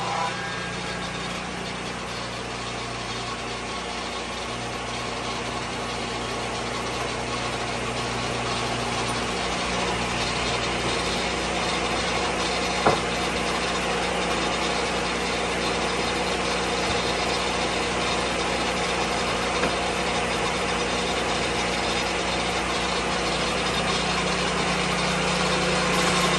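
Lucas Mill 10-30 swing blade sawmill's engine running steadily, with one sharp knock about halfway through.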